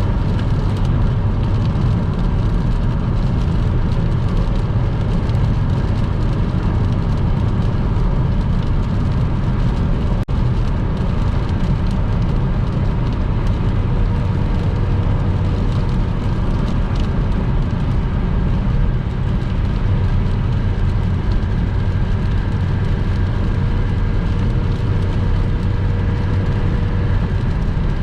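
Steady low road noise of a car driving at motorway speed on a wet road, with one brief dip about ten seconds in.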